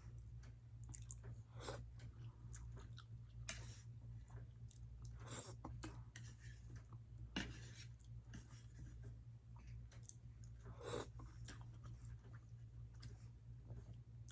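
A person chewing food close to the microphone, with short scattered mouth clicks every second or so over a faint steady low hum.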